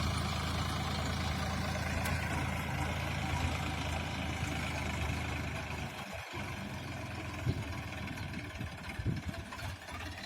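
Sonalika tractor's diesel engine running steadily at a low, even drone. About six seconds in, the sound briefly drops out and then comes back more uneven.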